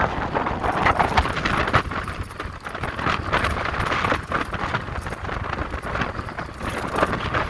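Wind rushing and buffeting over a helmet-mounted microphone while riding an electric motorcycle, with road noise underneath. The buffeting comes in uneven gusts.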